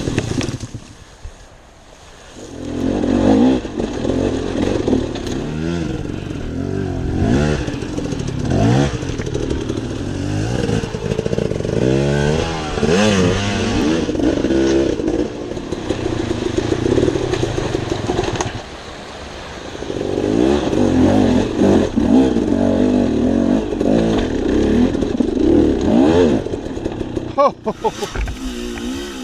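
Dirt bike engine running under way, revving up and down as the throttle opens and closes, with brief lulls about two seconds in and about two-thirds of the way through.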